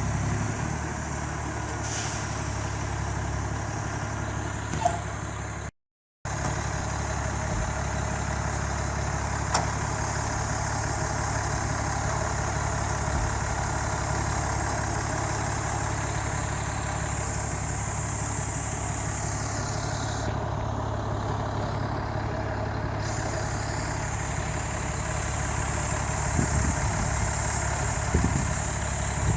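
A motor vehicle's engine running steadily, heavy and truck-like, over a steady outdoor haze. The sound cuts out completely for about half a second roughly six seconds in.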